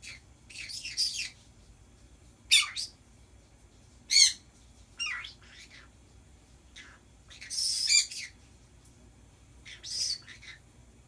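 Pet birds squawking and chattering: about six short, high, scratchy calls a second or two apart, with a longer call about two-thirds of the way in.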